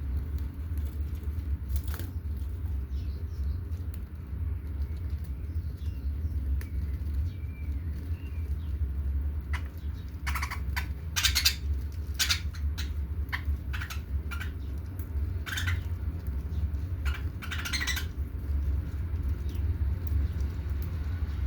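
Pet budgerigars, with a run of short, sharp, scratchy bird sounds about halfway through, over a steady low hum.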